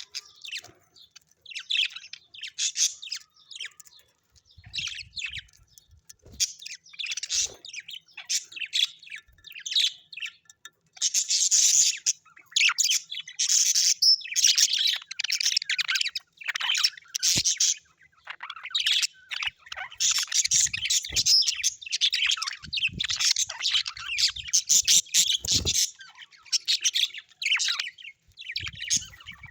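Small birds chirping and twittering in quick, overlapping runs of calls, busiest in the middle of the stretch.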